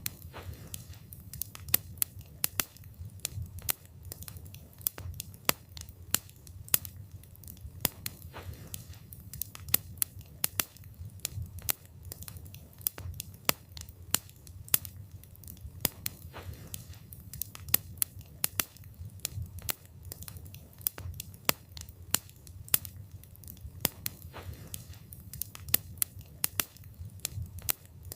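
Wood fire burning, with irregular sharp pops and crackles of burning wood, several a second, over a low, steady rush of flame.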